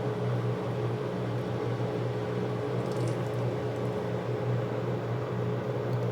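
Steady hum of a running appliance motor: a constant low drone with a higher tone held over it, and a few faint ticks about halfway through.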